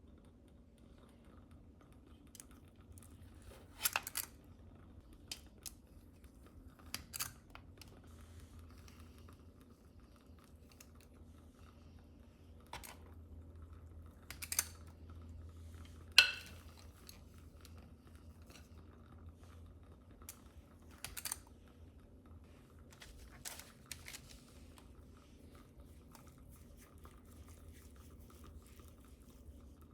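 Scattered soft kitchen handling sounds, taps, scrapes and rustles, with one sharper tap about 16 seconds in, over a faint low steady hum.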